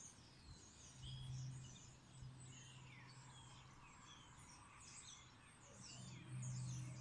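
Faint birds chirping: scattered short, high tweets, with a low steady hum that swells twice, about a second in and near the end.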